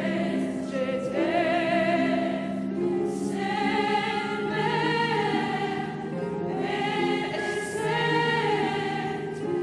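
Background music with a choir singing long, held notes.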